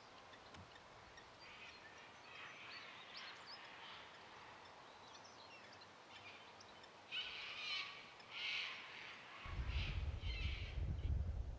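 Wild birds calling, faint scattered calls at first, then a series of four louder, harsher calls in the second half. A low rumble comes in shortly before the end.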